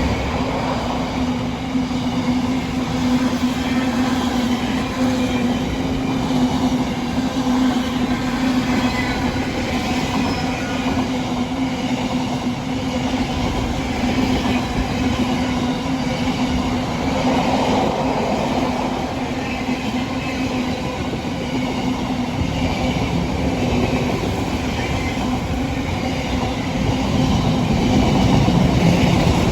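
Train running past on the line: a steady rumble of wheels on rail with a steady low hum, growing a little louder near the end.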